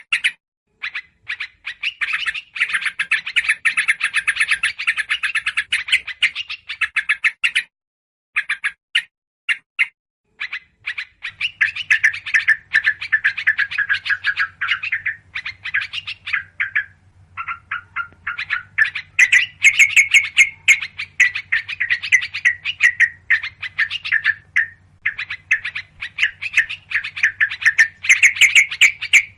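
Yellow-vented bulbuls chattering in an agitated, noisy bout, rapid rattling notes in long runs with brief pauses: a bird-lure recording meant to draw small birds in.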